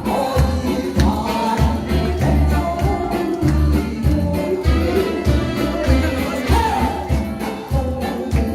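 Live band music with a singer, over a steady, heavy bass-and-drum beat.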